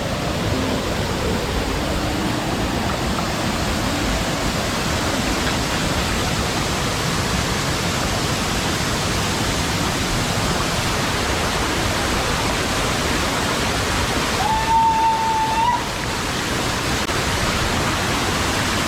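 Waterfall: a steady, dense rush of falling water. About three-quarters of the way through, a single clear whistle-like note sounds for just over a second.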